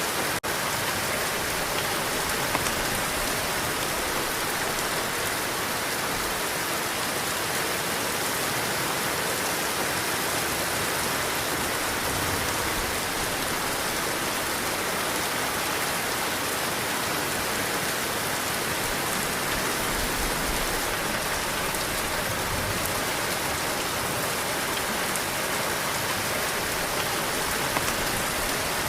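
Heavy rain falling steadily, a dense, even hiss of drops on surfaces, with a momentary dropout just after the start.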